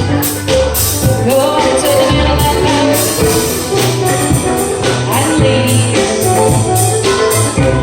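Live contra dance band playing a lively reel on fiddle, keyboard, mandolin and percussion, with a steady driving beat.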